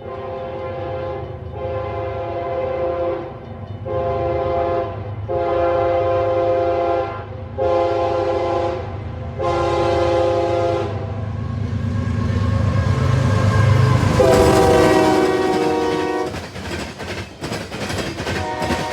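A diesel locomotive's multi-note air horn sounds about six blasts of a second or two each over the steady rumble of the engine, then one louder, lower-pitched blast about 14 seconds in. Near the end the rumble gives way to the clicking of train wheels over rail joints.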